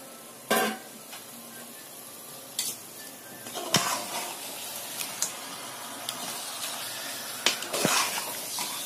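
Marinated chicken sizzling in hot oil and masala in a metal pressure cooker while a ladle stirs it. The ladle knocks and scrapes against the pan several times, the loudest about half a second in. The sizzle grows louder from about a third of the way through.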